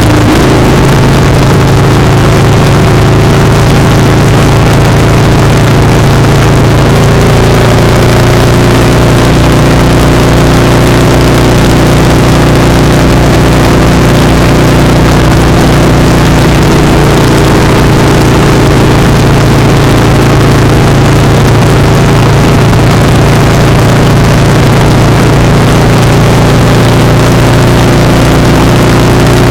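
Motorcycle engine running at a steady cruising speed, heard close up from a foot-peg-mounted camera, with a constant rush of wind and road noise over it.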